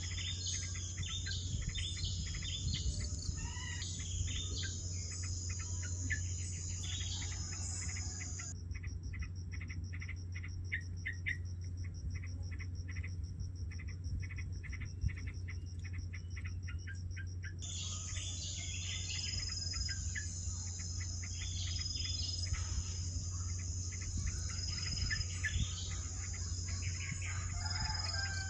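Outdoor ambience: a steady high-pitched drone of crickets and other insects with many short bird chirps over it, and a low hum underneath. About a third of the way in it switches for several seconds to an even, pulsing cricket trill with few chirps, then returns to the chirping.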